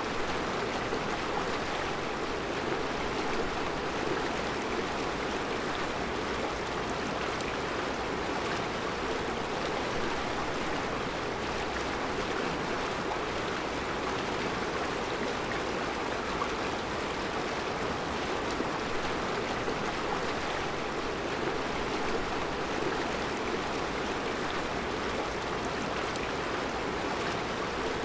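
Mountain river flowing over round rocks: a steady, even rush of water.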